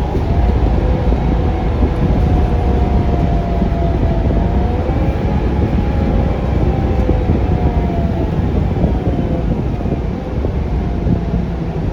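Articulated Scania K360UA bus, with its Scania DC9 engine and ZF Ecolife automatic transmission, heard on board while driving: a steady low rumble and road noise, with a whine that slowly rises and falls in pitch.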